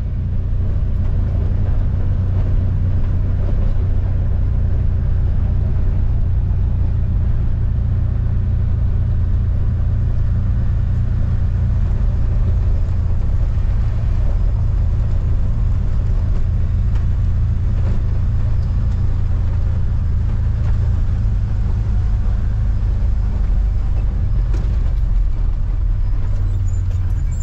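Motor vehicle driving at a steady pace, its engine and road noise making an even, low drone that holds unchanged throughout.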